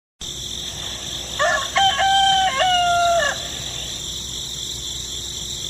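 A rooster crowing once, a single drawn-out crow of about two seconds starting about a second and a half in, over a steady high-pitched background hiss.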